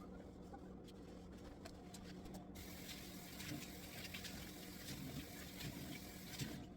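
Water running from a tap, turned on about a third of the way in as an even hiss and shut off near the end.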